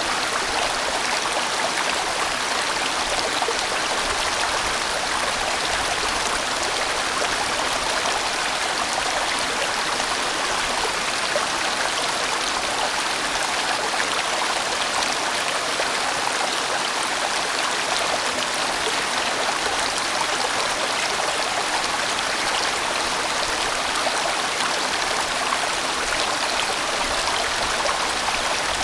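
Large mountain stream flowing steadily over rocks: a continuous even rush of water.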